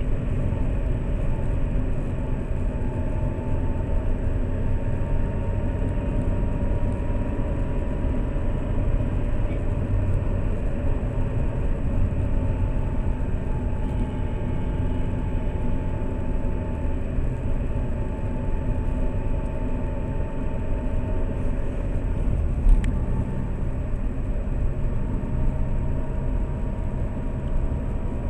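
Lada Priora driving, heard from inside the cabin through a dashcam: a steady low rumble of engine and tyre noise. A single knock comes once, late on.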